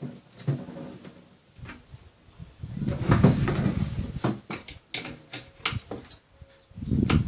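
Scattered clicks and scrapes of a screwdriver and pliers tightening skateboard truck bolts into the deck, with louder rumbling handling noise about three seconds in and again near the end.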